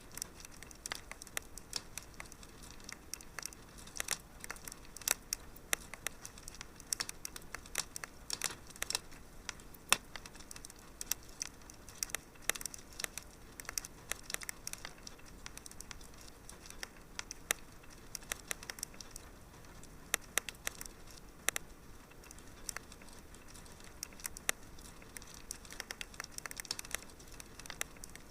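Wood fire crackling: a dense, irregular run of sharp pops and snaps over a faint steady hiss, with a few louder pops scattered through.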